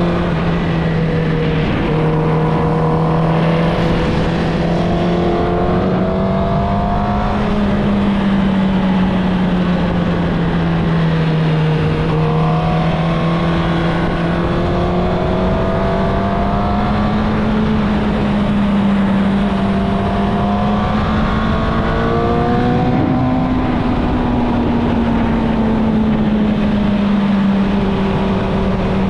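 2016 Suzuki GSX-R1000's inline-four engine through its stock exhaust, running at steady riding revs that rise and fall gently a few times, over a constant hiss of wind and road noise.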